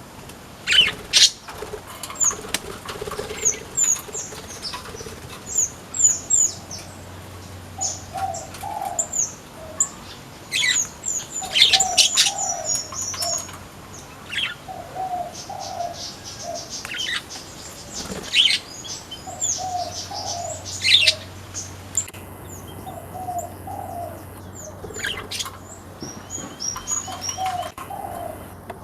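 Flamboyan birds in an aviary chirping: many short, sharp, falling high notes, some in quick runs. Under them a low cooing phrase repeats every two to three seconds.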